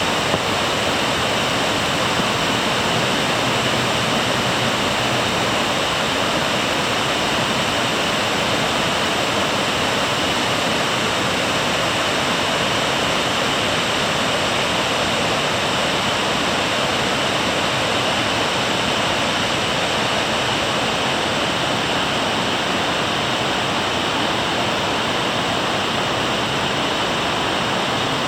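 Yudaki Falls, a cascade sliding down a long sloping rock face, with water rushing steadily and evenly without let-up.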